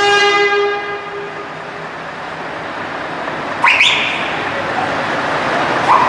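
Truck air horn sounding a steady multi-tone blast that fades out in the first second or so, over a steady din of engines and crowd. A few short rising whistles follow, one about two-thirds in and another near the end.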